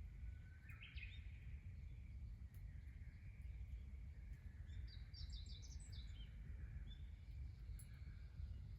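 Birds chirping outdoors: a short burst of twittering about a second in and another, higher one around five to six seconds, over a faint steady low rumble.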